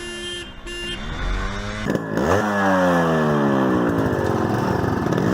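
Two short horn honks, the last of a three-honk start signal, then motorcycle engines revving up and accelerating hard from about two seconds in, their pitch sweeping as they pull away.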